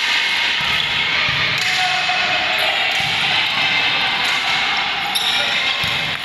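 A ball bouncing with a few low thumps on an indoor court over a steady din of players' voices and hall noise.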